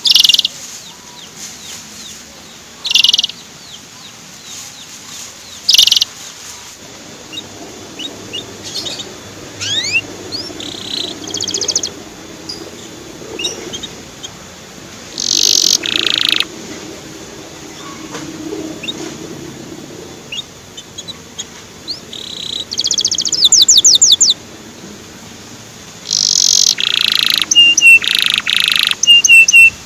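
Canary singing in short separate bursts: sharp chirps, quick rising whistles and, a little before the end, a fast trill, followed by a run of short repeated notes.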